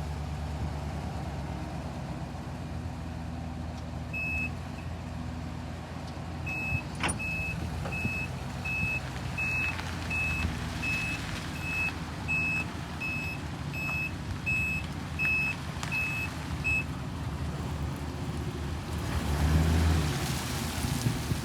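A work truck's engine running steadily, with its backup alarm beeping evenly, about three beeps every two seconds, from about four seconds in until near the end; the truck is being put in reverse. Near the end the engine noise swells louder for a couple of seconds.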